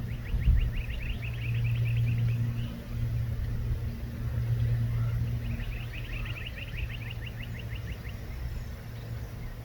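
A small bird sings two rapid trills of quick repeated high notes, each lasting about two and a half seconds, over a steady low hum.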